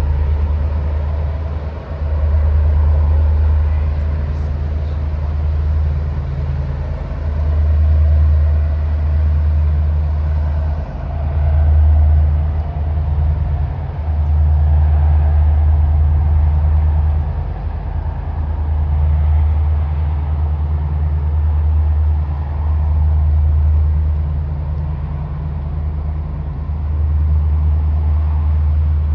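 Deep rumble that swells and drops in gusts every few seconds, typical of wind buffeting the microphone, over a steadier low hum.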